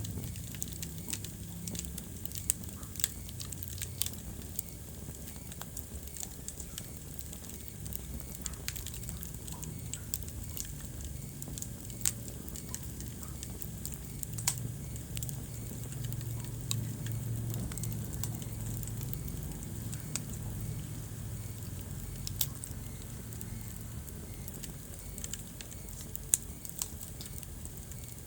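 Wood fire crackling in a fireplace: scattered sharp pops and snaps over a low, steady rumble.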